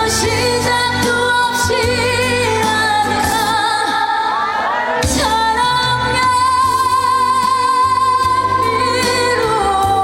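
A woman singing a trot song live with instrumental accompaniment, her voice wavering in a wide vibrato, sliding in pitch about halfway through and then holding one long note for about three seconds.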